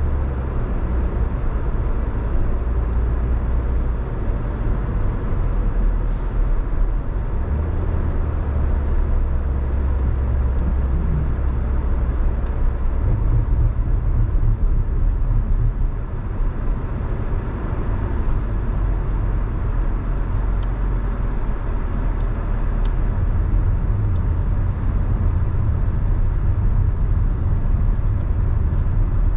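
A car on the move: a steady low engine and road rumble, its low hum shifting pitch a couple of times as the speed changes.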